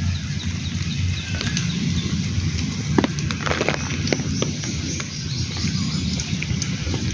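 Monsoon rain falling steadily, with scattered sharp drop hits close by over a low rumble.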